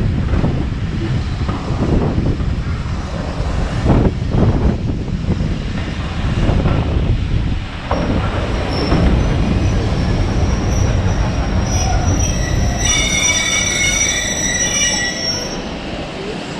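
Heritage railway train running on the track with a steady low rumble and a few heavy clunks. Near the end comes a high-pitched squeal of the wheels lasting about two seconds.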